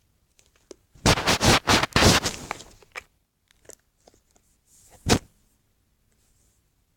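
Close, loud scraping and rustling handling noises in a cluster of short bursts, then scattered clicks and one sharp scrape about five seconds in.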